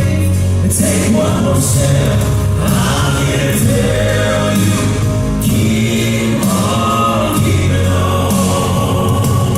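Southern gospel male vocal quartet singing in harmony, with loud instrumental accompaniment and a steady beat.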